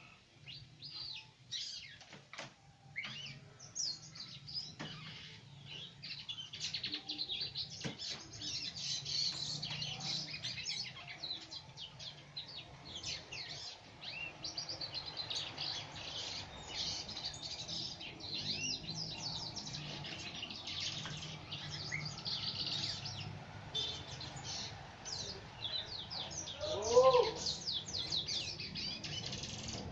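Birds chirping and twittering continuously in many quick, high notes. Near the end one louder, lower call wavers up and down.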